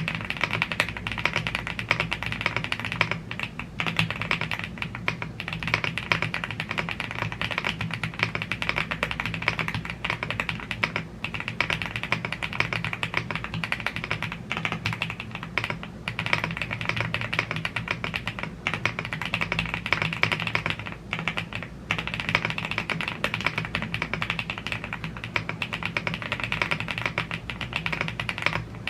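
Fast continuous typing on a YUNZII AL75 mechanical keyboard with Blue Grey tactile switches and PBT keycaps, a dense stream of key clacks with a few brief pauses.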